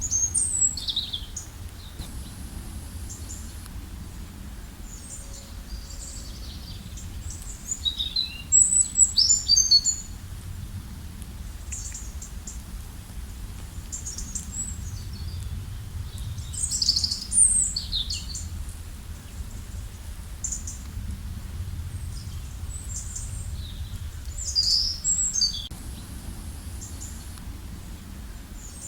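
Small songbirds chirping and twittering in short high bursts, the loudest run about 8 to 10 seconds in, over a steady low rush of flowing water.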